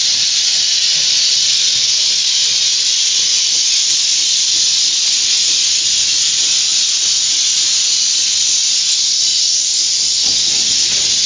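Steam hissing steadily and loudly from a Quarry Hunslet steam locomotive, a continuous high hiss with no pauses.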